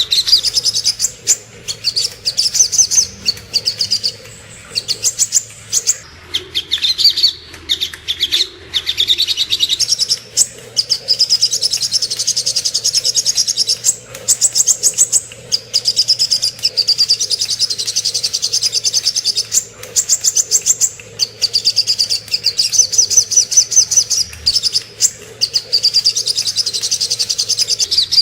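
Sogok ontong (little spiderhunter) singing: rapid, high-pitched trilled phrases of quick repeated notes, each a second or two long, repeated with short pauses over and over, as a masteran song recording. A faint low hum runs underneath.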